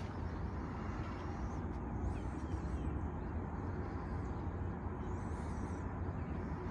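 Steady outdoor background noise, mostly a low rumble, with faint high calls that sound like birds about two seconds in and again about five seconds in.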